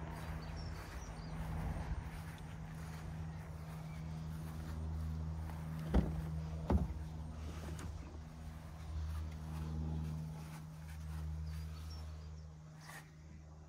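Mercedes A180 engine idling as a steady low hum, with two sharp clicks about six seconds in and a fainter one near the end.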